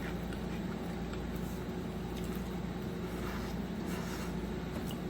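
Close-miked chewing and soft mouth sounds of someone eating, a few faint clicks scattered through, over a steady low hum.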